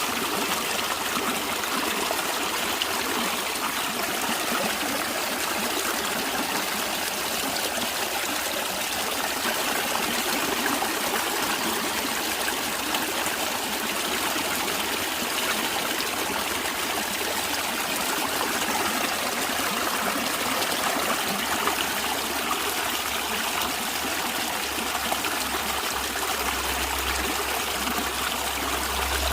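A natural stream running steadily, with trickling water. A low rumble comes in near the end.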